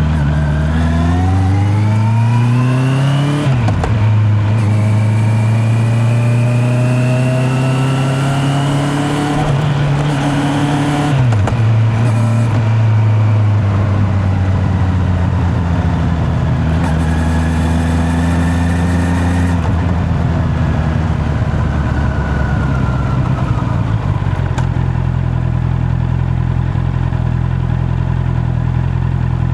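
Honda CB650R's inline-four engine pulling through the gears. The pitch climbs, drops at a shift about three and a half seconds in and again about eleven seconds in, then holds at a steady cruise. After about twenty seconds it falls away as the bike slows and settles to a low, even note, with wind rushing past at times.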